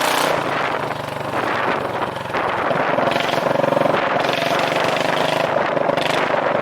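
2009 Yamaha Majesty 400 scooter's single-cylinder engine running through a straight pipe with no muffler, a loud, rapid exhaust pulsing. It gets louder about two and a half seconds in and holds there.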